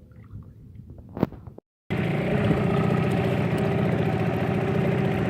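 A sharp click about a second in. Then, from just under two seconds in, the Hangkai 6 hp outboard motor is running steadily under way, still being run in.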